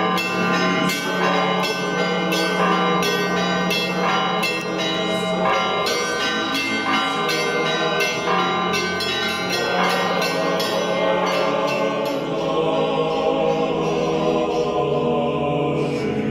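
Church bells rung in quick succession over a sustained low tone, as opening theme music. The strikes thin out about twelve seconds in, leaving sustained ringing tones.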